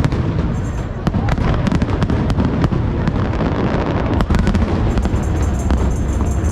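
Fireworks going off in a dense run of sharp crackling pops and bangs, thickest in the middle, over a steady low rumble.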